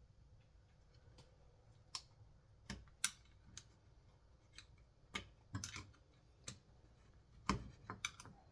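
Irregular light clicks and knocks, about a dozen, of small parts being handled on a chainsaw's recoil pull starter as it is reassembled and its spring wound.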